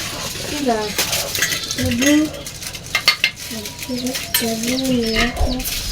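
Metal utensils clinking and scraping against a dish or bowl in a run of short, irregular knocks as spices are handled and stirred, with chickens clucking in the background.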